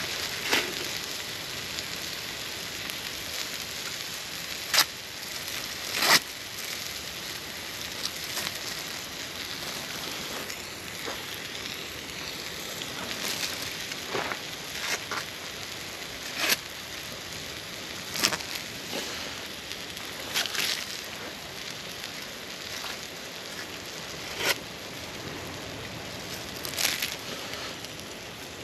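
Wood campfire crackling: irregular sharp pops, a second or several apart, over a steady hiss.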